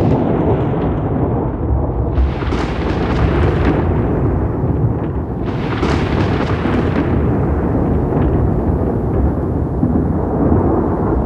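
Rolling thunder: a continuous deep rumble with two louder crackling peals, one about two seconds in and another around six seconds in.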